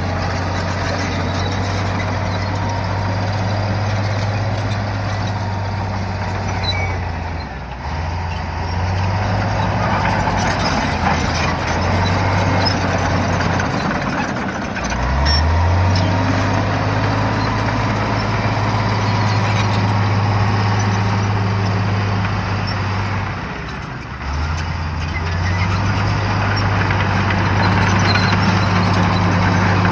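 Shantui bulldozer's diesel engine running hard under load, its low note dipping and climbing again roughly every eight to ten seconds as the machine pushes, with scattered clatter over a steady mechanical noise.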